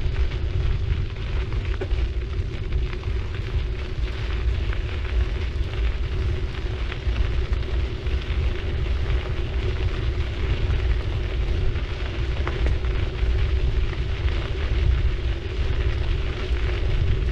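Wind rumbling on a bicycle-mounted action camera's microphone while riding, over a steady hiss of the bicycle's tyres rolling on the road, with small ticks and crackles.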